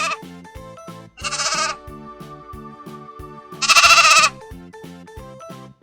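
Sheep bleating three times: one call trailing off at the start, a shorter one about a second and a half in, and the loudest, longest one about four seconds in. Background music with a steady beat plays underneath.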